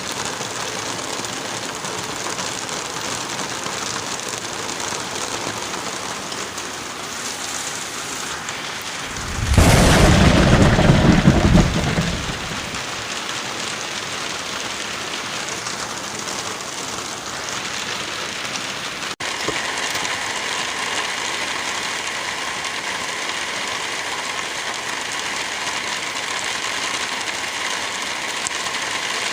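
Steady rain with one loud clap of thunder about a third of the way in, rumbling for a couple of seconds. About two-thirds of the way through, the rain sound changes abruptly and becomes slightly louder.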